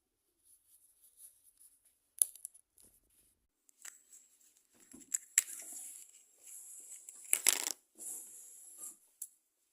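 Chewing gum wrapper being handled and opened: crinkling and tearing of the packaging with a few sharp clicks, most of the crinkling in the second half.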